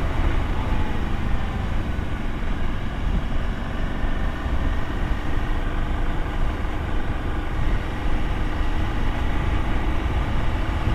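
Motorcycle engine running steadily while riding, with a constant rush of wind and road noise on the microphone.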